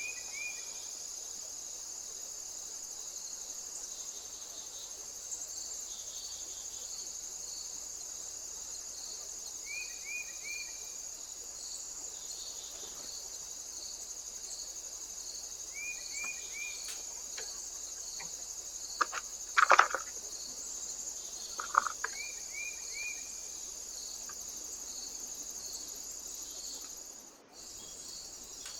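A steady, high insect chorus with a regular pulsing beat. Over it, a short three-note falling call comes four times, and a few sharp knocks about two-thirds of the way through are the loudest sounds.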